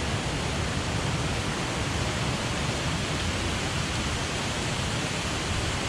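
Steady rushing of a rain-swollen waterfall: an even, unbroken noise of falling water.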